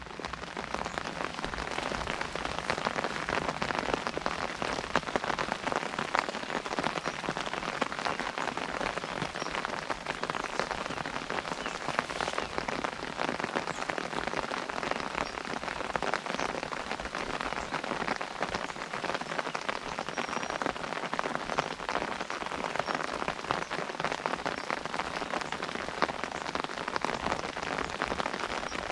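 Steady rain pattering on an umbrella overhead: a dense, even patter of many small drop impacts that fades in over the first second or two.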